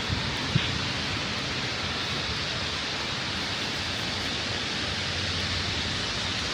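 Steady, even rushing hiss of outdoor noise, with a single faint click about half a second in.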